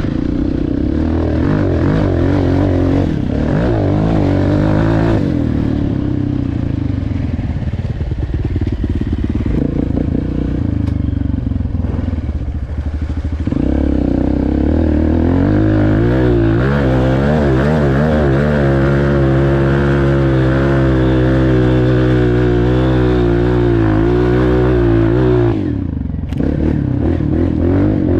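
Four-stroke dirt bike engine under way, its revs rising and falling as it is ridden, then held at steadier revs from about halfway through. The sound drops away abruptly for a moment near the end.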